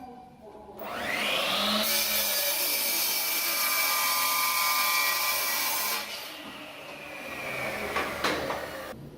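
An electric power tool spins up about a second in, works on wood with a steady, high whine for about five seconds, then stops.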